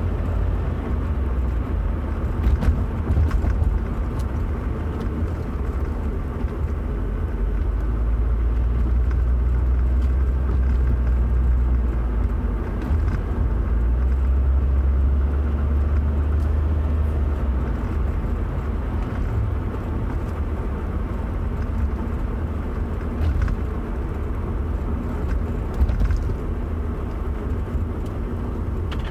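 Car in motion: a steady, deep rumble, with a few faint ticks here and there.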